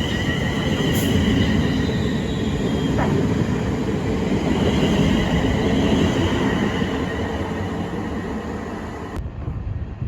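Electric passenger train running through the station: a steady rumble of wheels on the rails with a high whine from the traction equipment. It eases off over the last seconds, then cuts off suddenly about nine seconds in.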